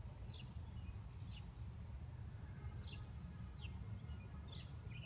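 Small birds chirping outdoors: short, quickly falling high chirps, several a second, over a steady low rumble.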